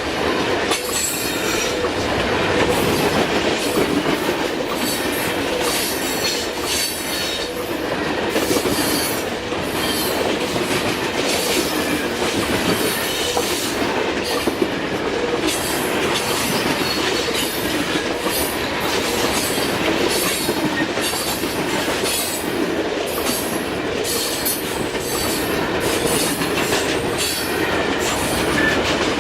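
Grain and sulfur freight cars rolling past at steady speed. Steel wheels click over the rail joints, with frequent brief high squeals from the wheels.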